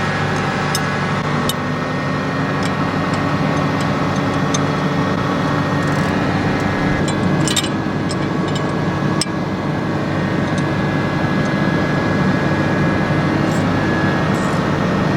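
Tractor engine running steadily while pulling a small square baler, with scattered sharp clicks and rattles.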